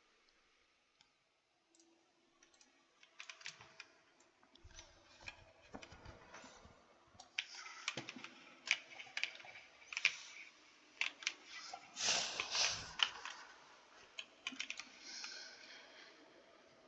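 Computer keyboard being typed on: irregular key clicks that begin about three seconds in and grow busier, with quick flurries of keystrokes toward the middle.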